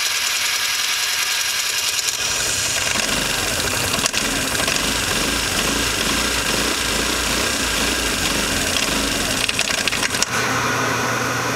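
Vespa ET4 scooter's 150 cc four-stroke engine being started and run, with a deeper running note from about two seconds in until near the end. The owner, just after the repair, wonders whether something is not catching.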